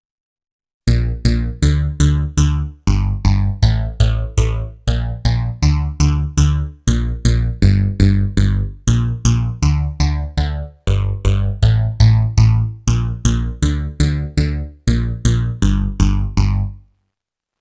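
A Roland JD-990 preset, a plucked, bass-heavy synthesizer sound, playing a repeating sequence of short notes at about two to three a second, each dying away quickly. It starts about a second in and stops near the end.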